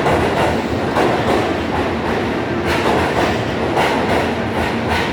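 Keihan 3000 series electric train rolling into an underground platform, its wheels clacking over rail joints in quick pairs over a steady rumble.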